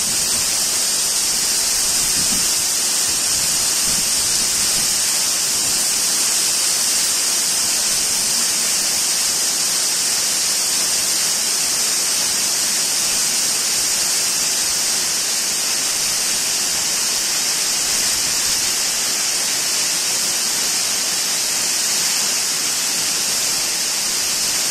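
Waterfall pouring: a steady, even rush of falling water with a strong hiss and no breaks.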